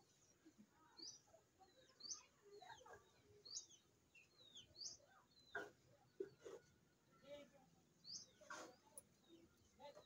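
Faint birds chirping: short, high, curving notes repeated about every second, with a couple of sharper calls partway through.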